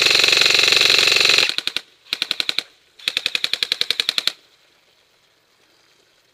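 Airsoft rifle firing full-auto in rapid bursts: a long burst that stops about a second and a half in, a short burst, then a longer one ending a little after four seconds in.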